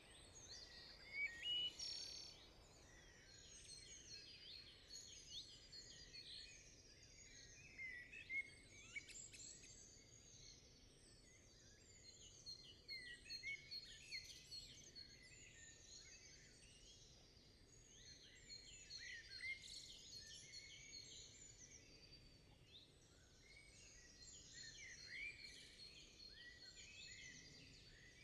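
Several small songbirds chirping and singing in woodland, many short high calls overlapping throughout, over a faint low hush.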